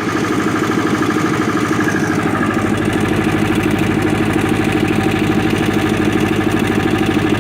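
1995 Libby MEP-803A 10 kW military generator's four-cylinder Onan diesel engine running steadily, with a rapid, even pulsing.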